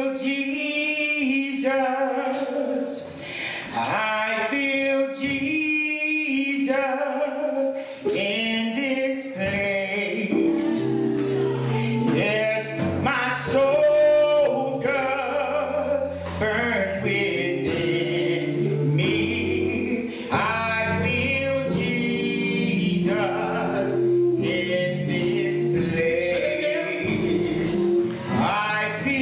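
Gospel choir singing, men's and women's voices together. Low held notes come in underneath about ten seconds in.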